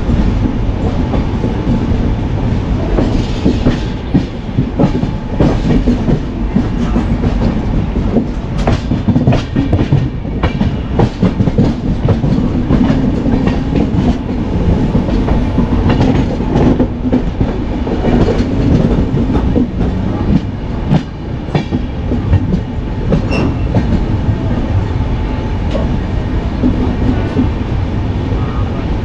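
Passenger train running on the track: a steady low rumble with irregular clattering of the wheels over rail joints.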